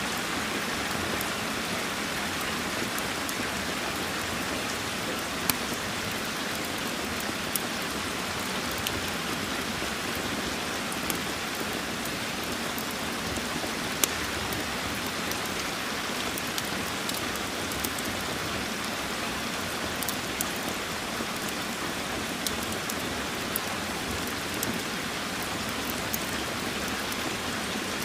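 Steady rain falling, with scattered sharp pops and crackles from a wood fire every second or two.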